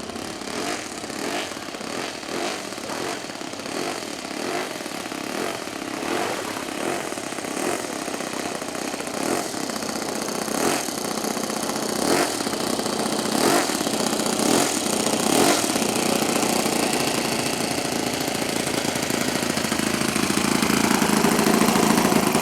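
The FG-11 engine of a radio-controlled float plane running, a single-cylinder four-stroke petrol model engine. It grows steadily louder toward the end.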